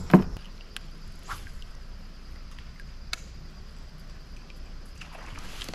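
Steady high-pitched drone of insects along the creek, broken by one sharp knock just after the start and a few faint clicks, with a soft rushing noise near the end.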